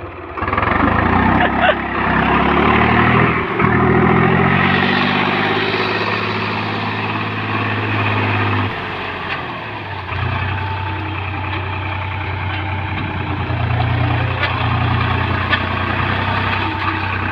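Tractor engine revving hard under load, its pitch rising and falling as it strains to pull free of the field where it is stuck. The revs drop away about halfway through and come back up a second or so later.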